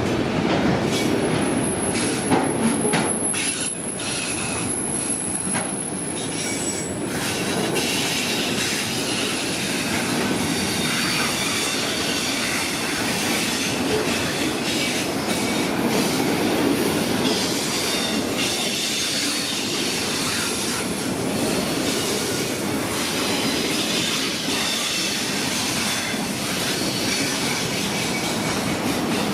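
Freight cars of a manifest train rolling past, a steady rumble of wheels on rail with scattered clicks, and a thin high wheel squeal through the first several seconds.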